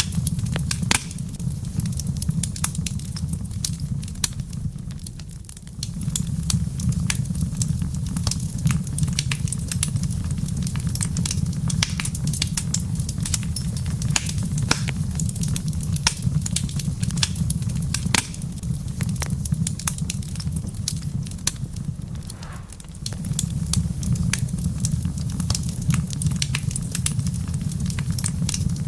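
Wood fire crackling in a fireplace, with frequent sharp pops over a low, steady rumble of the flames. The low rumble fades briefly twice, about five seconds in and again about three-quarters of the way through.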